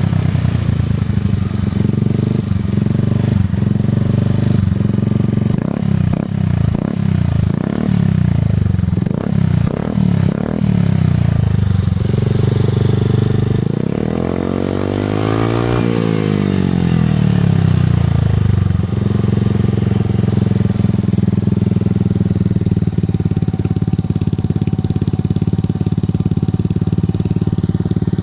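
Suzuki Address V125G scooter's single-cylinder engine through a baffle-less Realize 22 Racing titanium exhaust, blipped repeatedly with quick revs up and down. It makes one longer rev up and back down near the middle, then runs steadily for the rest.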